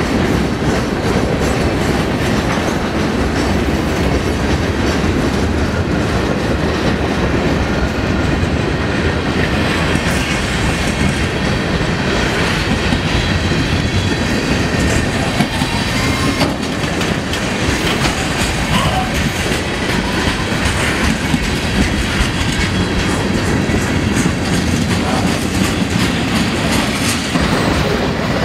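Freight cars of a slow manifest train rolling past close by, steel wheels on the rails making a steady loud rumble with clattering over the rail joints.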